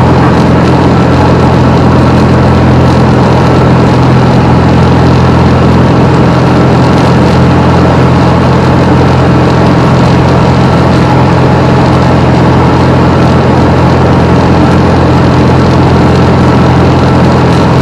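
Steady drone of a Piper Comanche 250's six-cylinder Lycoming engine and propeller as heard inside the cabin in flight, a constant low hum over a rushing noise, with no change in power.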